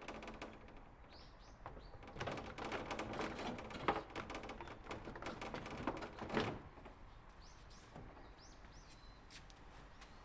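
Small birds chirping in short high calls near the start and again in the second half. In between comes a run of light clatter and knocks from hands-on work, with the sharpest knocks about four and six and a half seconds in.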